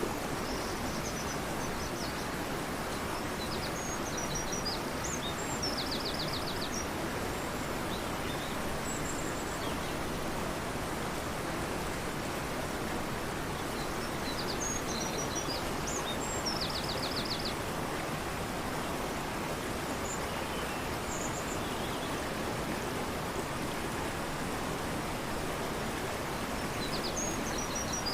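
Fast-flowing river rushing steadily, with a songbird singing over it. The same short song, ending in a rapid trill, comes three times, about once every thirteen seconds.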